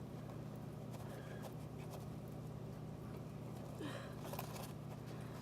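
Quiet stretch with a low steady hum and faint handling noise, and a brief faint sound about four seconds in.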